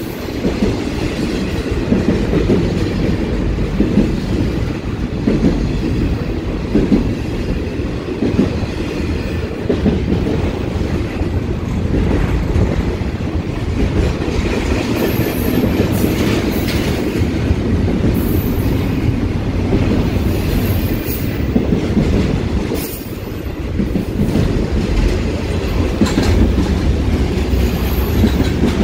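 Double-stack intermodal freight train of container well cars rolling past at close range: a steady low rumble of steel wheels on rail with clickety-clack, and brief high-pitched wheel squeals several times in the second half.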